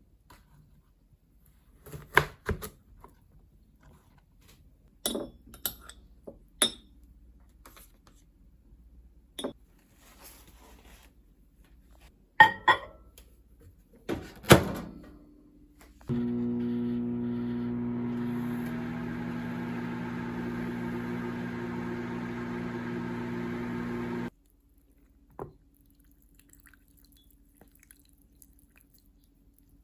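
Kitchen clatter of dishes and utensils set down in a string of knocks and clinks, then a microwave oven running with a steady hum for about eight seconds before it stops abruptly, followed by a single click.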